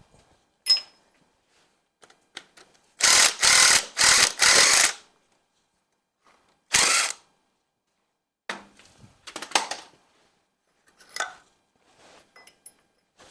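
Ratchet wrench working fasteners on an engine, in four short loud bursts of clicking about three seconds in and one more burst a couple of seconds later, with light clinks of tools and parts around them.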